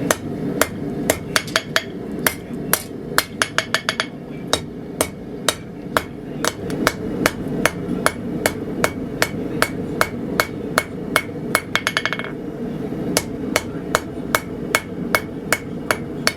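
Hand hammer forging a hot mild steel bar on an anvil: steady blows at about two to three a second, with quick flurries of lighter taps twice, over a steady low noise underneath.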